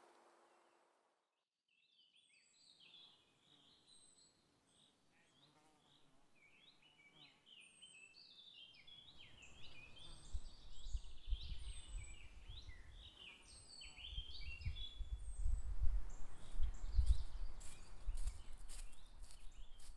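Songbirds chirping and singing, many quick overlapping calls starting a couple of seconds in. From about nine seconds in a low rumble builds underneath, loudest near the end, with some clicks and rustles.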